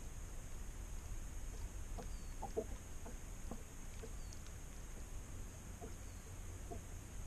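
Faint, short clucking bird calls, scattered irregularly, over a low steady rumble.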